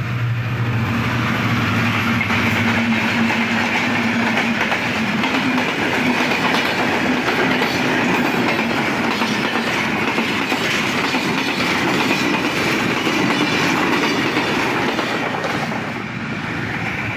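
A train passing close by: its cars rolling along the rails in a steady, loud rush that eases off near the end.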